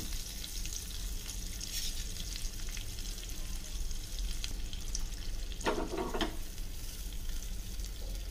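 Chopped garlic and cumin seeds sizzling in hot melted butter in a small tadka pan, a steady crackling fry, with a short louder sound about six seconds in.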